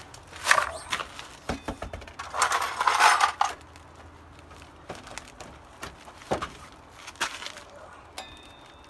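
Metal clinks and knocks from tools and a motorcycle wheel being handled, with a longer, louder scraping rush about two to three seconds in.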